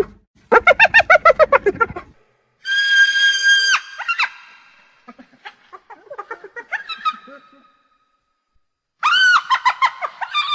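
Spotted hyena giggling: a fast run of high, pitched laughing notes, then a long high squeal, softer scattered chattering notes, a short pause, and another high call breaking into rapid notes near the end.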